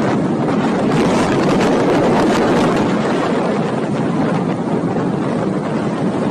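Hurricane-force wind blasting across the microphone: a loud, steady roar of noise with no pitch or rhythm.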